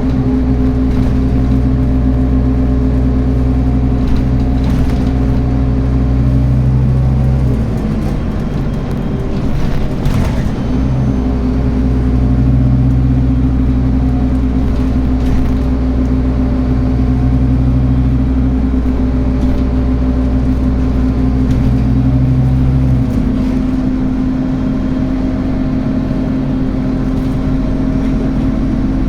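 Scania N280UB city bus with a ZF Ecomat automatic gearbox, engine running with a steady hum. A deeper drone underneath drops out about seven seconds in, returns a few seconds later, and drops out again about two-thirds of the way through. There is one brief click near the middle.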